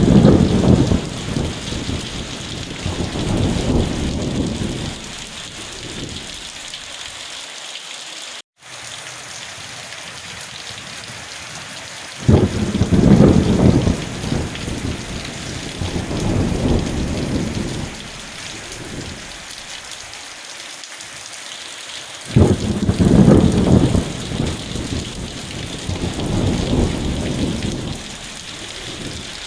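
Steady rain with thunder: deep rumbling peals that break out suddenly and roll on for several seconds, at the start, about twelve seconds in and again about twenty-two seconds in. The sound cuts out for a split second about eight seconds in.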